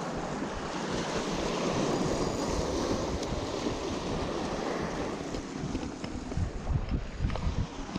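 Steady rush of wind and lapping river water, with gusts buffeting the microphone in irregular low thumps in the second half.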